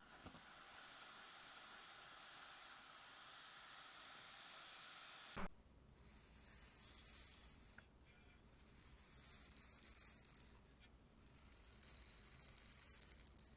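A faint steady hiss, then three hisses that each swell and fade over about two seconds.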